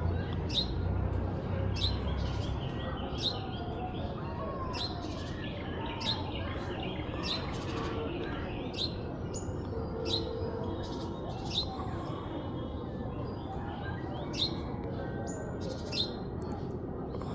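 Baby parrot calling: a sharp, high chirp repeated about every second and a half, with softer chattering between the chirps.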